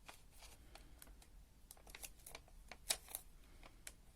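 Paper being handled and folded by hand: quiet scattered crackles and small taps, the sharpest one a little before three seconds in.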